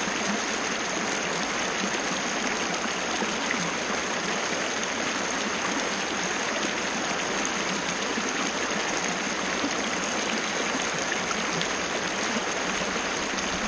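Waterfall, water pouring and splashing in a steady, unbroken rush, with a thin steady high tone above it.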